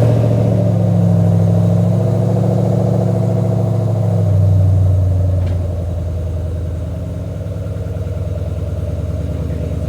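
Ford Mustang (S197) engine idling right after a cold start, first at a raised fast idle, then settling to a lower steady idle about halfway through.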